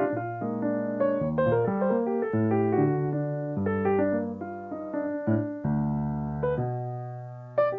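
Solo piano playing: melody notes over chords, each note struck and then fading, with one long chord left to die away near the end before new notes come in.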